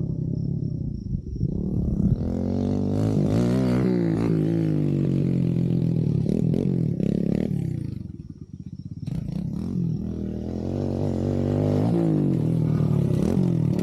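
Kawasaki KLX110 dirt bike's small single-cylinder four-stroke engine revving up and down as it is ridden around, dropping away about eight seconds in, then coming back up.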